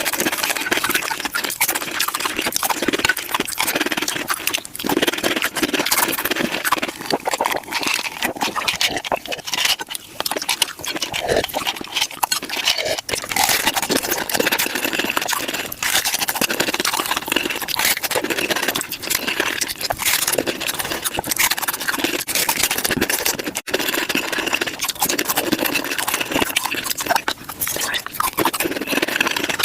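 Mukbang eating sounds of tacos being chewed and crunched, sped up to five times normal speed. They come as a continuous, dense stream of rapid crunches and wet mouth clicks.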